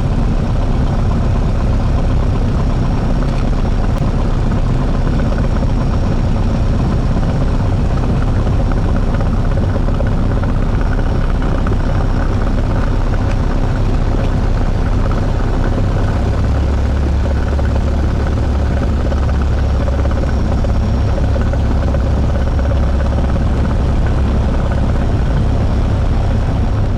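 Cessna 172 Skyhawk engine and propeller running steadily at taxi power, heard from inside the cockpit. About sixteen seconds in, a deep low hum under the engine note becomes noticeably stronger.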